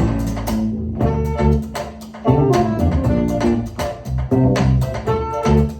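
Live band playing an instrumental passage: guitar and bass guitar with regular sharp percussive hits.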